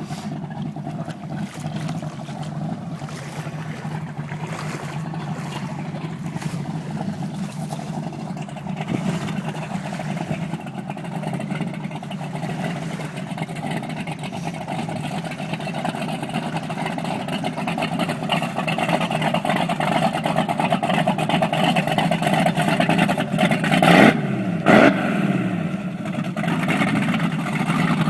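Hallett 240 boat's engine running steadily, gradually louder, with two quick revs of the throttle near the end.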